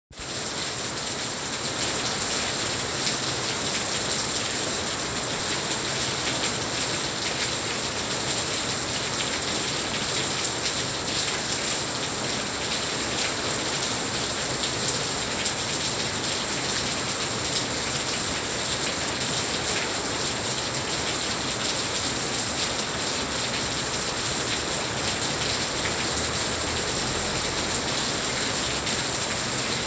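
Heavy rain falling steadily: a dense, even hiss with fine ticks of individual drops through it. It fades in at the very start.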